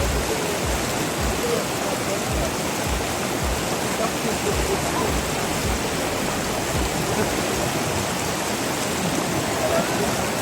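River water rushing and flowing steadily, with occasional short low rumbles underneath.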